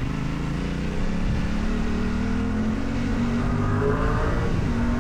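Yamaha Ténéré 700's parallel-twin engine running as the motorcycle rides along, its pitch shifting slightly with the throttle.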